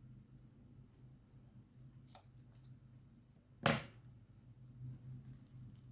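Light clicks of small craft items being handled, and one short, sharp snip about two-thirds of the way through, over a faint steady low hum.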